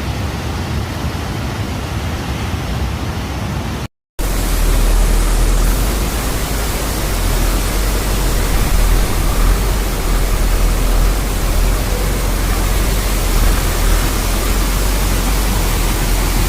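Steady rushing noise with a deep rumble underneath. It cuts out for a moment about four seconds in and comes back louder.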